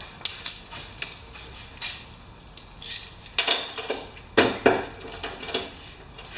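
Metal tools clinking and clanking as a spark plug socket and wrench are worked on the spark plug of a Tecumseh lawn mower engine. Scattered sharp knocks, the loudest a few in the second half, with a brief high squeak near the end.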